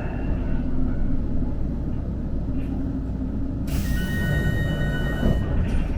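Kagoshima City streetcar standing at a stop with a steady low rumble. About four seconds in comes a loud compressed-air hiss with a faint whistle in it, lasting about a second and a half.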